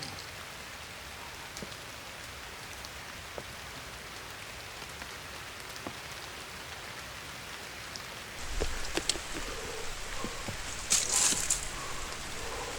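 Steady rain falling, with single drops ticking now and then. About two-thirds of the way through, low rumbling and knocking noises join in, and near the end there is a loud crackling rustle.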